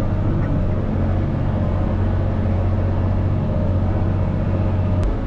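Caterpillar 637C scraper's diesel engine running steadily, a deep even drone, with one sharp click about five seconds in.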